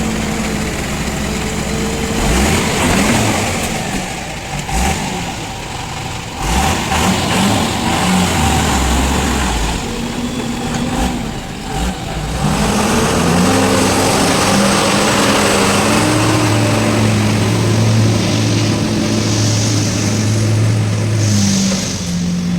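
JCB 3DX backhoe loader's diesel engine running and revving up and down as it works, its pitch rising and falling. In the first half, rough clattering noise with a few sharp knocks rides over it.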